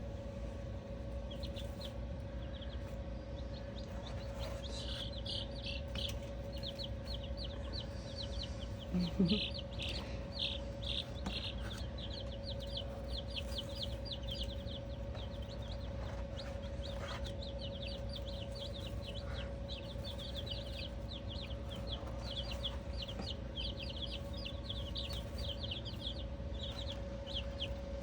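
Sapphire Gem chicks peeping continuously, many short high peeps overlapping, over a steady hum.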